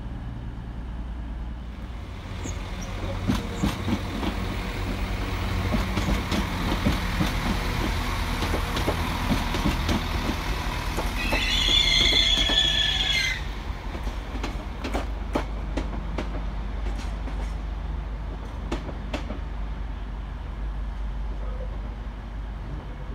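West Midlands Railway diesel multiple unit passing close by: a rumble of engine and wheels that builds, a high squeal for about two seconds near the middle, then a run of sharp clicks as its wheels cross rail joints.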